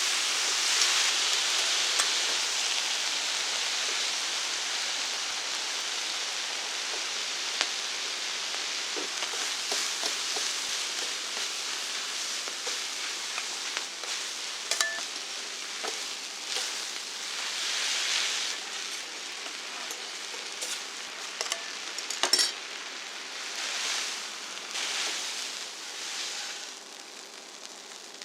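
Food sizzling on a large iron griddle, with scattered clicks and clinks of metal utensils. The sizzle is strongest at first and slowly dies down toward the end.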